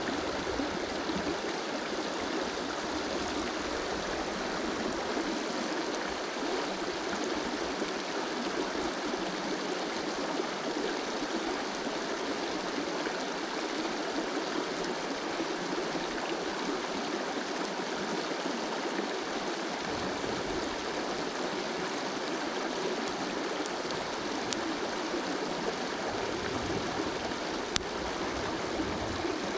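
River water flowing over stones, a steady rush, with a faint click or two near the end.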